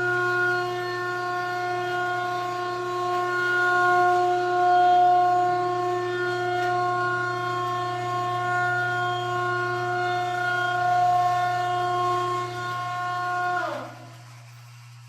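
A single sustained electronic synth note, horn-like and rich in overtones, held steady over a low hum. Near the end it slides sharply down in pitch and dies away.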